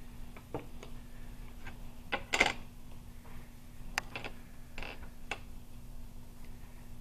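Scattered light clicks and taps of game pieces being handled on a table, the loudest cluster about two and a half seconds in, over a faint steady hum.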